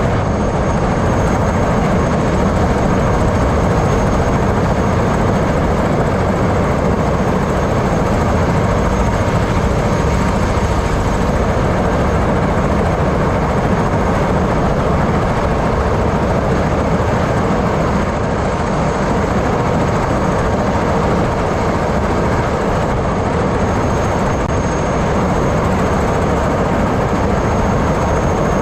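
Helicopter in flight: steady, loud engine and rotor noise, with a faint steady high whine over it.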